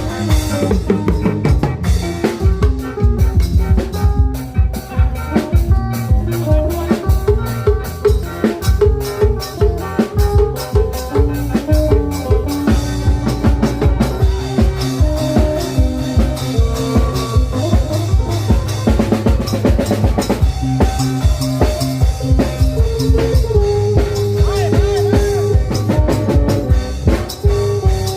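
Isan klong yao prayuk band music: a dense, driving drum beat on long drums and drums, under a melody of phin and khaen.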